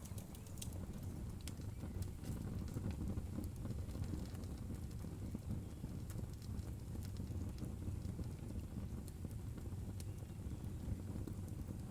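Fire crackling in a fireplace: scattered sharp pops and ticks over a steady low rumble.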